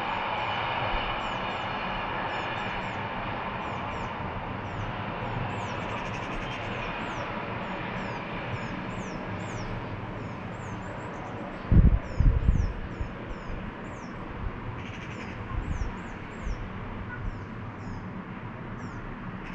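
Small birds chirping over and over with short, high, falling notes, over the noise of a passing train that fades away during the first several seconds. A few low bumps of wind on the microphone come about twelve seconds in.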